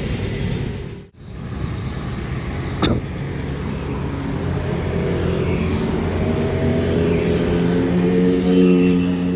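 Truck engine running and accelerating, its pitch rising steadily through the second half. There is a short sharp click about three seconds in, and the sound drops out briefly about a second in.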